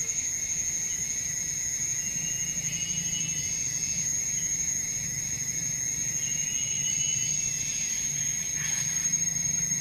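Steady chorus of insects trilling: one continuous very high-pitched tone that never breaks, with a weaker, lower steady trill and a faint low rumble beneath.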